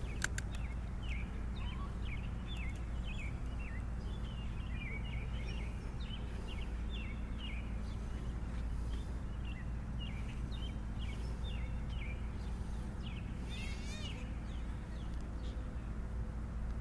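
Small birds chirping over and over in short calls, over a steady low rumble, with a couple of sharp clicks right at the start.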